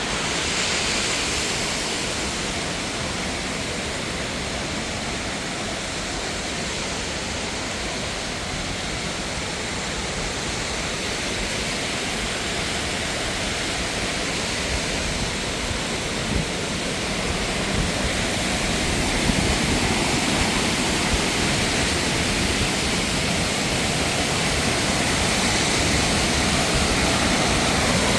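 Steady rushing of a mountain waterfall, growing a little louder in the second half.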